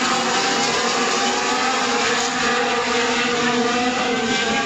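Several Formula 1 cars' 1.6-litre turbocharged V6 hybrid engines running hard together, their overlapping engine notes sliding up and down in pitch as they accelerate and brake.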